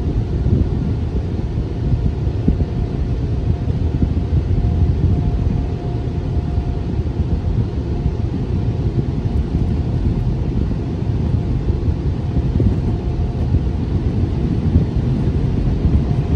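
Automatic car wash air dryer blowers running: a loud, steady rush of air with a deep rumble and a faint steady hum.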